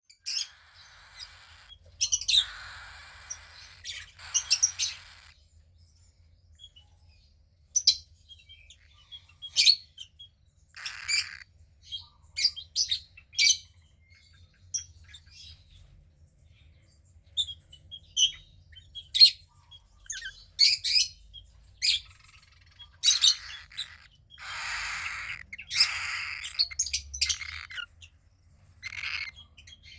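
Young cockatiel chick calling: short, high chirps scattered throughout, with a few longer harsh, raspy calls about two seconds in and again near the end.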